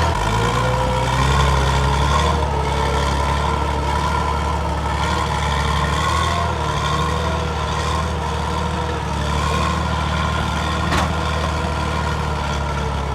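Heavy machine's diesel engine running steadily at low revs, with no change in speed.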